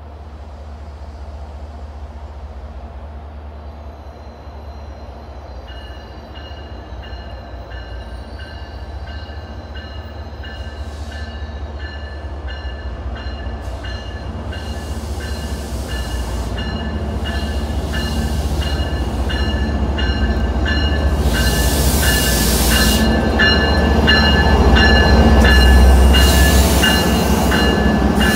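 MBTA diesel commuter train pulling into the station, its locomotive's rumble growing steadily louder as it comes closer. From about six seconds in its brakes squeal in steady high tones, and the sound is loudest near the end as the locomotive draws alongside.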